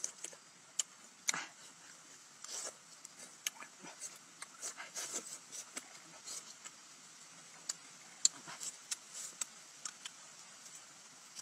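A person eating grilled meat with his hands: open-mouthed chewing and lip smacking, with irregular sharp wet clicks and short smacks.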